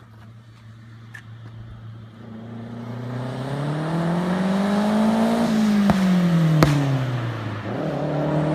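Mazdaspeed3's turbocharged four-cylinder through a CNT turboback exhaust accelerating past in a flyby. The engine note climbs in pitch and grows louder as the car approaches, then drops as it passes, with two sharp cracks just after it goes by.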